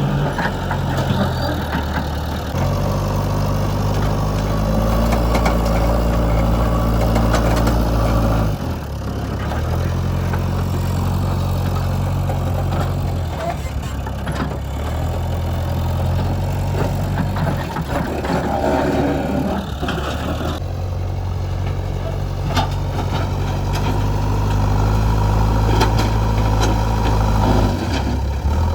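JCB 3DX backhoe loader's diesel engine working under load, its pitch stepping up and down every few seconds as the machine digs and loads. A patch of rougher clattering comes about two-thirds of the way through.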